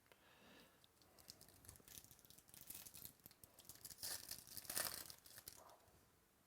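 Faint rustling and small clicks of trading cards being handled and slid past one another, busiest about four to five seconds in.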